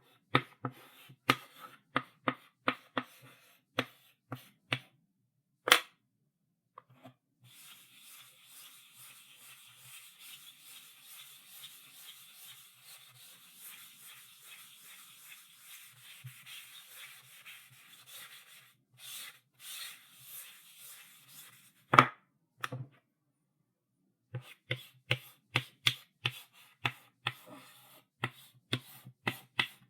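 Chalk writing on a blackboard: quick taps and short strokes, then a long steady scraping stretch of about eleven seconds, then more short strokes. A sharp knock of chalk on the board, the loudest sound, comes about two-thirds of the way through, and the rapid tapping strokes return near the end.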